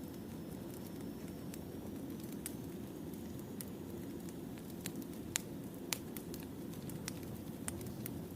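Wood fire burning: a steady low rumble of the flames with scattered sharp crackles and pops, two louder pops a little past halfway.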